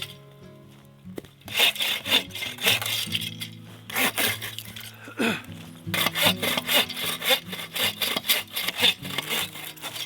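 Hand saw cutting through dry dead wood in quick back-and-forth strokes, starting about a second and a half in, pausing briefly near the middle, then resuming. Background music plays underneath.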